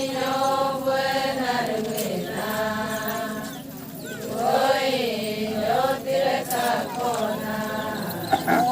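Adi Ponung song: voices chanting in long, drawn-out notes that waver in pitch, phrase after phrase with short breaks between.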